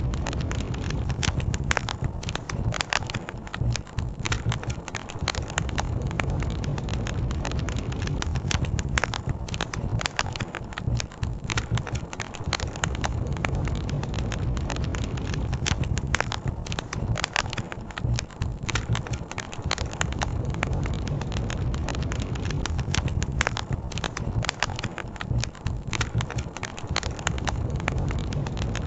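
Wood campfire crackling, with frequent sharp pops and snaps, over a steady low rush that fits the fire burning and a flowing river.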